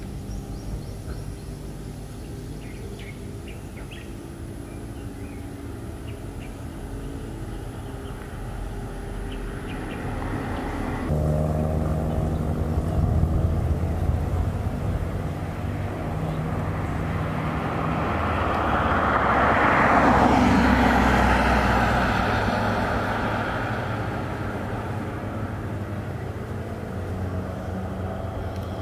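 Motorcycle engine running on the road, its note changing abruptly about a third of the way through; about two-thirds in, a rush of noise swells up and fades away again.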